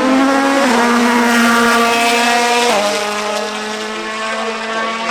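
Competition car engine held at high, steady revs, its pitch stepping down twice, about a second in and again near three seconds in.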